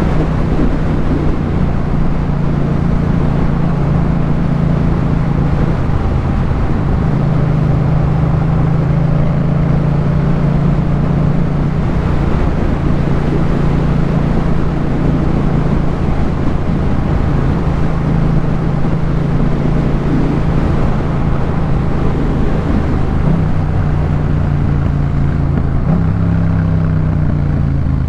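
Yamaha MT-07 parallel-twin engine through a Jeskap K4 full aftermarket exhaust, running at fairly steady revs while riding, with wind noise. The engine note shifts a few times, around a quarter of the way in and twice near the end.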